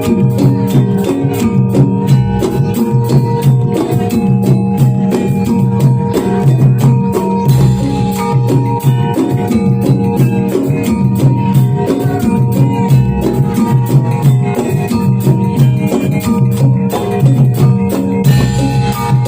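Live gamelan music for a jathilan horse dance: drums beating a fast, steady rhythm under sustained ringing tones.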